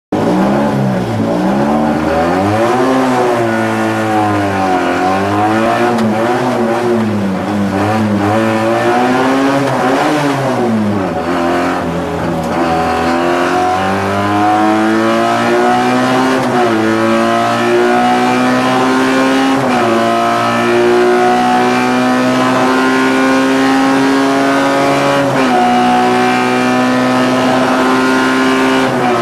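Fiat 126p hillclimb race car's engine heard from inside the stripped cabin, revving up and down hard at first, then pulling up through the gears in long rising sweeps, each cut short by a gear change.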